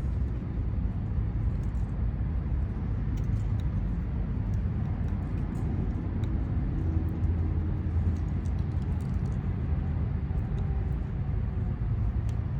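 Steady low outdoor rumble, with faint small metallic clicks scattered through it from a Lishi pick being worked inside a Honda car door lock.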